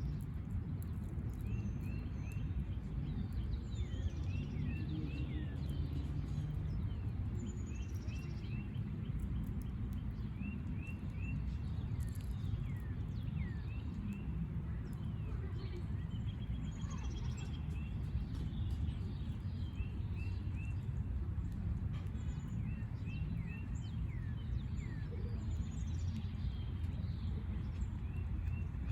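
Backyard songbirds chirping and calling throughout, in quick runs of short notes and quick downward-sweeping calls, over a steady low rumble.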